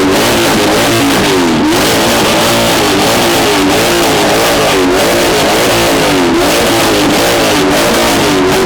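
Corvette engine revved hard and repeatedly through a loud aftermarket exhaust in an exhaust-sound contest, the pitch rising and falling over and over without a pause.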